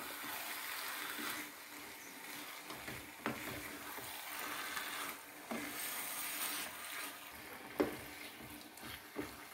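Chicken pieces sizzling in masala in a frying pan as they are stirred with a spatula, with a few knocks of the spatula against the pan.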